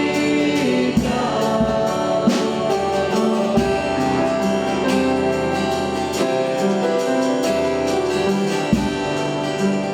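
Gospel worship song: a group of voices singing with a band of keyboard and drums.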